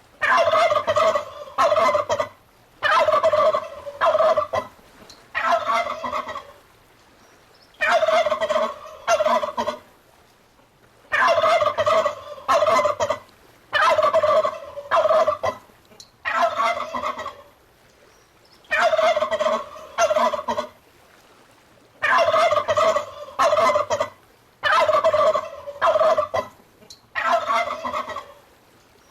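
Domestic turkey gobbling: about a dozen separate gobbles, each a second or so long and often in quick pairs, with short pauses between.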